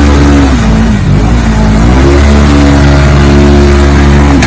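A vehicle engine revving: it climbs, eases off about a second in, then rises again and holds at high revs until it stops abruptly at the end.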